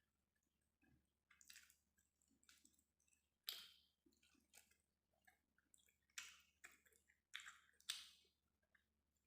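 Faint close-up eating sounds of a person chewing bread and noodles: a string of short, wet mouth noises coming at irregular intervals. The clearest come about three and a half seconds in and between about six and eight seconds in.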